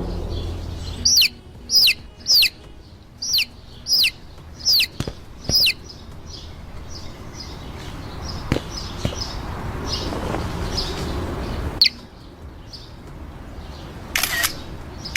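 A small bird cheeping: a run of about eight short, high chirps that each fall in pitch over the first six seconds, then fainter ones, with a louder cluster of calls near the end.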